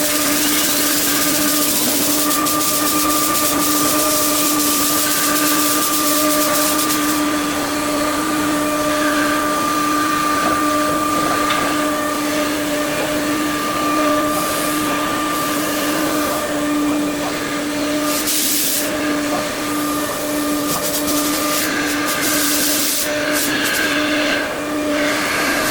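A 5-axis CNC machine running, with a steady pitched spindle whine throughout. Over it is a hiss, loud for the first seven seconds or so and then coming and going in short bursts.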